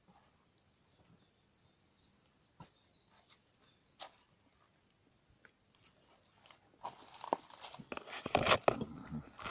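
Wood fire crackling with scattered sharp snaps, turning into a much louder, dense run of crackling and crunching from about seven seconds in. Faint bird chirps in the first few seconds.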